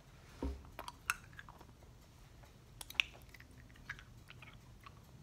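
Faint chewing of candy: scattered soft mouth clicks and smacks, with a low thump about half a second in.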